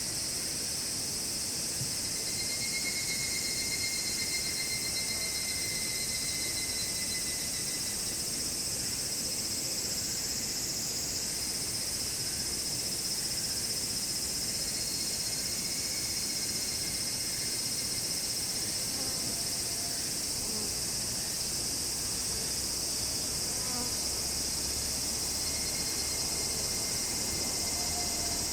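Dense, steady chorus of summer insects, a continuous high-pitched shrilling with a fainter fluttering trill underneath for a few seconds near the start.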